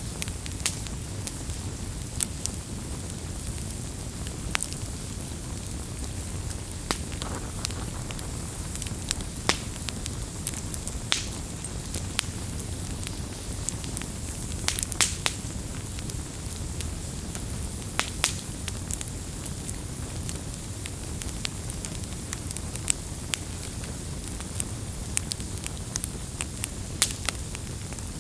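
Wood campfire burning: a steady low rumble of flames with frequent irregular sharp crackles and pops from the burning wood.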